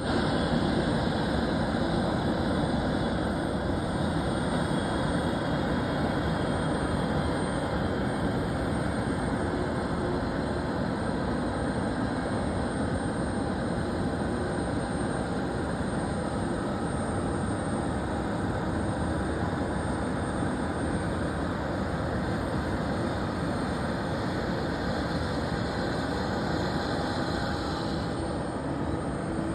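Airbus A321neo on pushback: steady jet aircraft noise with a faint high whine running through it.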